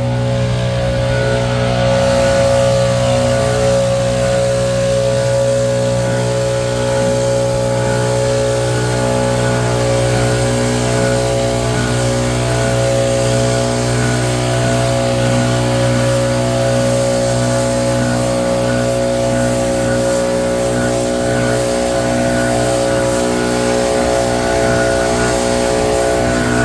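Vehicle engine running at a steady, nearly unchanging speed, a constant hum.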